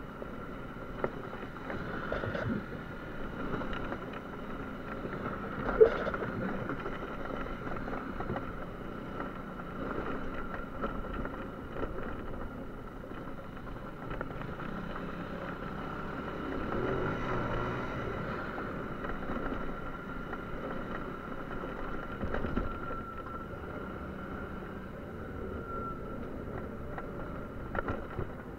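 Small motor scooter engine running steadily under way, with a few brief knocks and clatters along the way.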